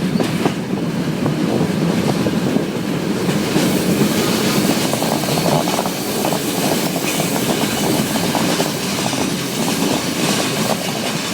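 Flåm Railway train running on the mountain line, heard from on board: a steady rumble of wheels on rails with a fast clatter, and a hiss that grows stronger after about three and a half seconds.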